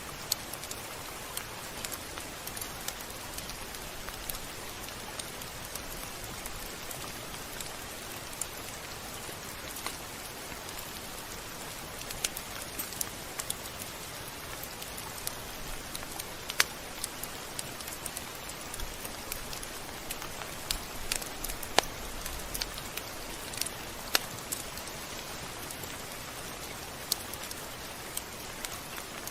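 Steady rain falling, a continuous hiss with irregular sharp drips and ticks of drops landing on a surface.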